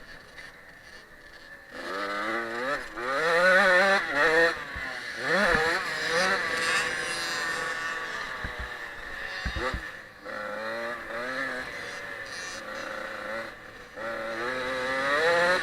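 Small-displacement two-stroke motocross bike engine, a Husqvarna TC 65, revving hard and climbing and falling in pitch again and again as the rider accelerates and shifts around the track. It is quieter for the first two seconds, then runs loud for the rest.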